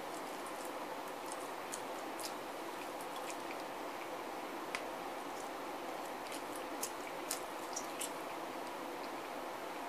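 A man chewing and biting chicken wings with his mouth close to the microphone: scattered wet smacks and clicks over a steady background hiss.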